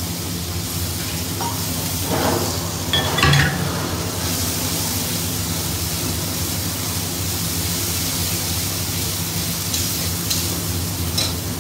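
Spice paste frying in hot oil in a steel kadai, with a wooden spatula stirring and scraping it steadily; a few sharper knocks of the spatula against the pan about two to three seconds in and again near the end. The masala is being fried down until the oil separates from it.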